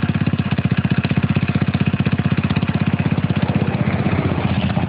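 Small single-cylinder motorcycle engine running steadily at a held, fixed speed, with a fast, even firing pulse and no rise or fall in revs.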